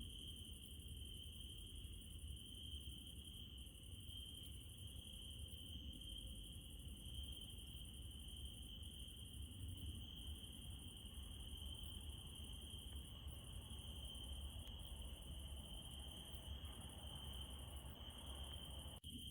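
Crickets trilling steadily at night: a continuous high-pitched trill with a second, higher pulsing chorus above it and a faint low rumble beneath. The sound drops out for an instant near the end.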